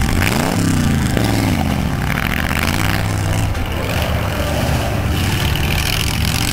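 Ford hot rod roadster's engine and exhaust, accelerating hard and easing off as it drives round a cone course, the engine note rising and falling several times.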